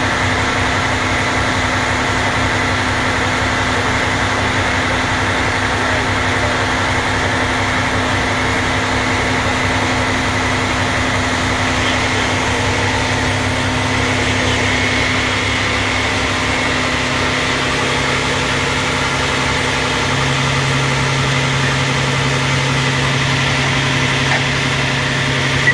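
Vehicle engine idling steadily, its low hum stepping slightly higher in pitch about two-thirds of the way through.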